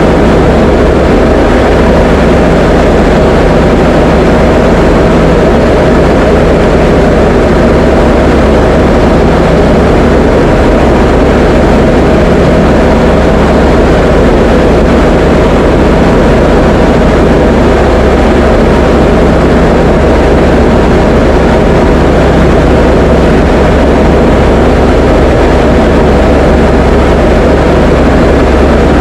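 Diamond DA20 light aircraft's piston engine and propeller running at a steady cruise setting, heard as a loud, unchanging drone inside the cockpit.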